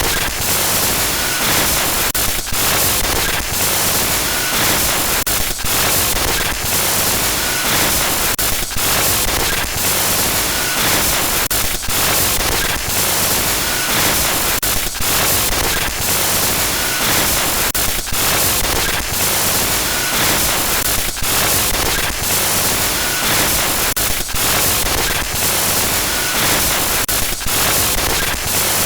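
Loud, harsh static glitch noise, a horror sound effect. The dense hiss is broken by brief cut-outs every second or two.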